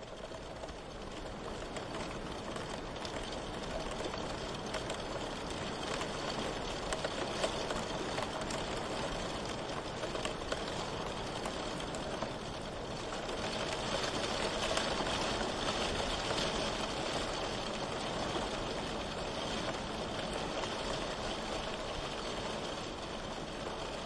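Steady rain ambience, a soft even hiss that fades in over the first few seconds and then holds level.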